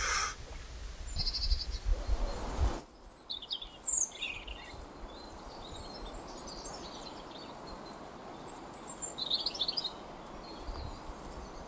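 Small woodland birds giving short, high chirps and calls every few seconds over a steady soft hiss. A low rumble in the first few seconds cuts off abruptly.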